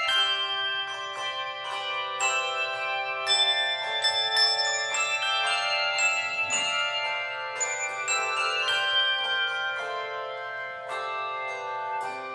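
Handbell choir playing a piece: chords of bells struck and left ringing, the tones overlapping, with new strikes every second or so.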